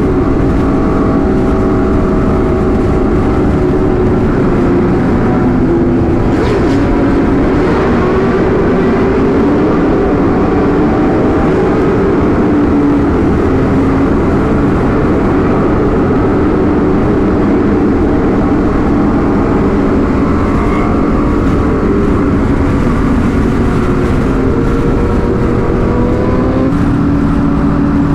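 Sport-bike engine running steadily at riding speed, its pitch drifting gently up and down with the throttle, over continuous wind and road rush.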